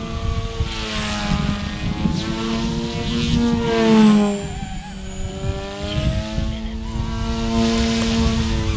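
XK K130 RC helicopter flying at high headspeed: a steady electric motor and rotor whine whose pitch bends up and down as it maneuvers, loudest about four seconds in, over a rough low rumble.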